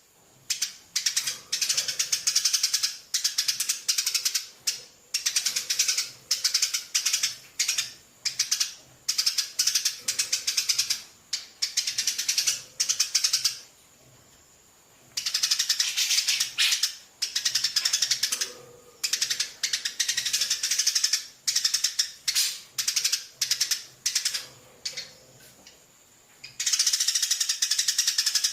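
Parrot chick's raspy begging calls while being fed, in bouts of a few seconds made of many quick pulses each second, with a pause about halfway and another near the end.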